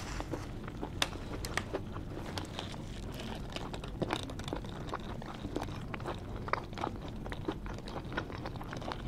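Close-up chewing of a cheesesteak sandwich, with irregular wet mouth clicks throughout.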